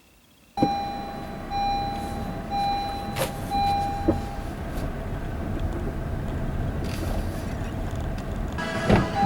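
A vehicle's engine running, with a high chime sounding four times in short beeps during the first few seconds. Knocks and a louder stretch of activity come near the end.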